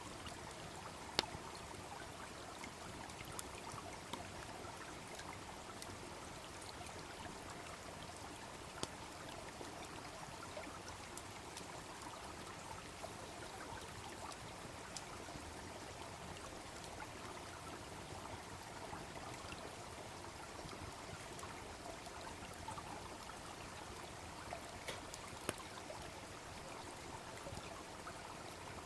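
A small brook babbling steadily, with the sharp crackling pops of a wood campfire now and then, a few of them close together near the end.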